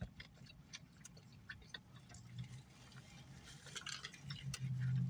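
Faint, scattered mouth clicks and smacks of someone chewing food, over a low steady hum that grows louder near the end.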